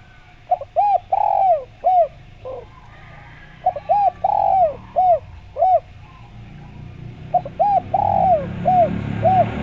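Spotted dove (derkuku/tekukur) cooing. It gives the same phrase three times, about three and a half seconds apart: short arched coos with one longer, drawn-out coo in the middle.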